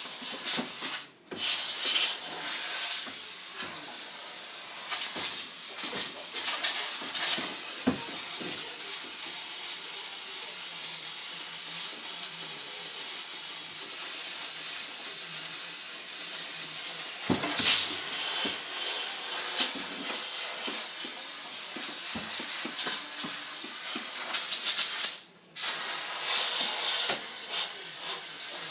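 Handheld steam cleaner jetting steam with a steady, loud hiss, cutting off briefly about a second in and again near the end as the trigger is released, with occasional knocks against the fridge.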